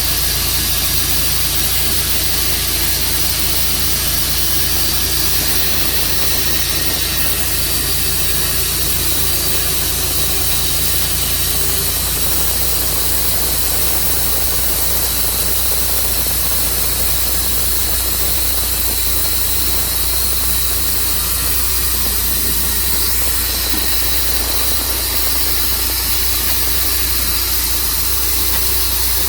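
Tru Cut sawmill running steadily under power, a loud constant engine hum with a wide hiss over it; the sound shifts slightly about twelve seconds in.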